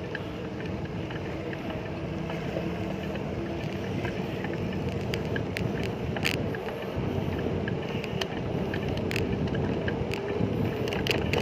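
Steady street traffic noise with engines running, heard from a moving bicycle, with scattered light clicks and ticks.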